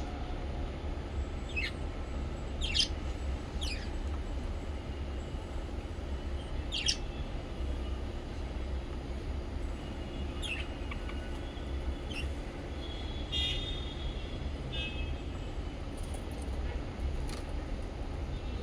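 Small pet parrots giving scattered short, sharp chirps every second or two, with a brief chattering run a little past the middle. A steady low hum lies underneath.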